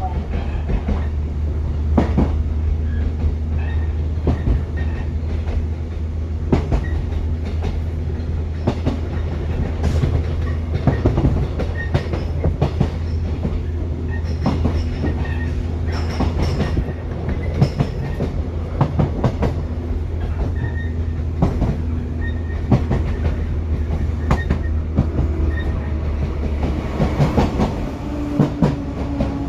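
Shinano Railway 115-series electric train (motor car KuMoHa 115-1067) running at speed, heard from inside the car with the windows open. A steady low running hum sits under the clickety-clack of the wheels over rail joints. Near the end the low hum drops away while the wheel clatter goes on.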